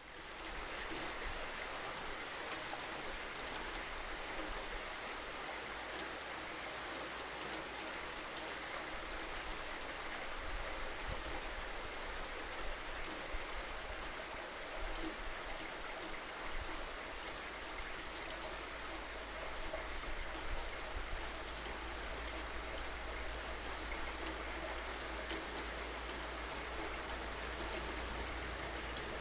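Steady rainfall, an even hiss of rain with scattered drops pattering on surfaces, fading in from a brief silence at the start.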